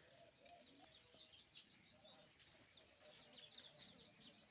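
Faint chirping of small birds: many short, high chirps in quick succession over near silence.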